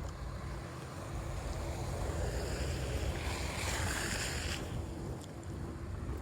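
Snowy city street noise: a steady low rumble of traffic, with a hissing swell that builds from about two seconds in and cuts off sharply near four and a half seconds.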